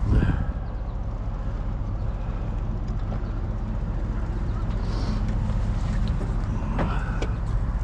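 Truck engine running with a steady low hum. A short knock sounds right at the start.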